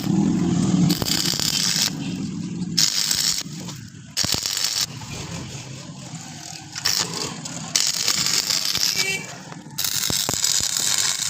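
Metal workshop noise, rattling and scraping of steel, heard as a run of short clips that cut off abruptly every second or two, with scattered clicks and knocks.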